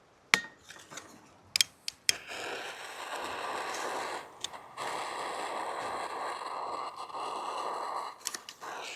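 Three sharp clicks, then Primus Ulti canister gas stove hissing steadily as gas flows through the burner. The hiss breaks off briefly about halfway through and stops near the end.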